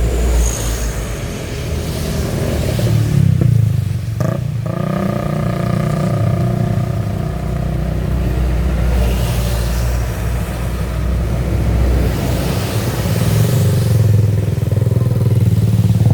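A motor vehicle engine running on the road, a steady low rumble with a fainter hiss above it.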